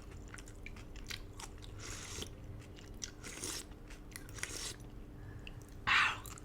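Close-miked mukbang eating of braised duck noodles: chewing with many small wet mouth clicks, and a few short hissy swishes, the loudest about six seconds in.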